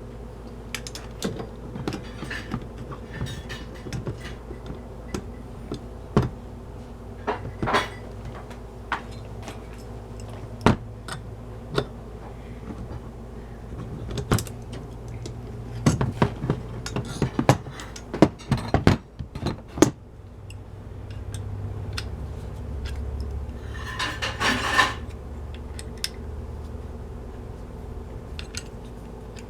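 Hand tools clinking and knocking against metal as a fitting is tightened onto a new dishwasher water inlet valve: a string of sharp clicks and clanks, busiest in the middle, with a short scrape late on, over a steady low hum.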